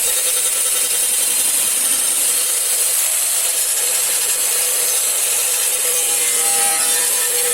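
Power sander running steadily against car bodywork: a continuous abrasive rasp over a steady motor hum.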